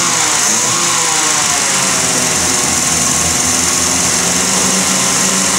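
Lancia Appia's narrow-angle V4 engine running, its throttle worked by hand at the carburettor. The note wavers up and down in the first couple of seconds, then holds steady.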